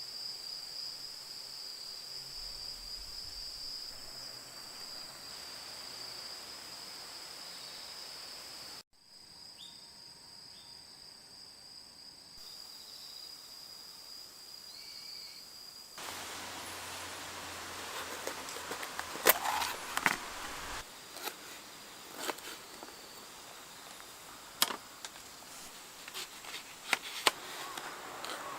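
Insects chirring in a steady high-pitched drone that stops abruptly twice. In the second half, a scatter of sharp clicks and knocks, the loudest a little past the middle.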